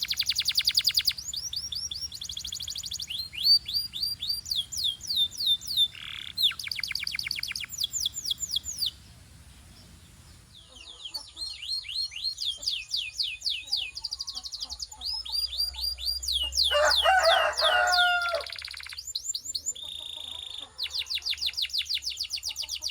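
Belgian canaries singing in rapid trills of repeated down-slurred whistles, pausing briefly about a third of the way through. A lower-pitched phrase comes in a little after halfway.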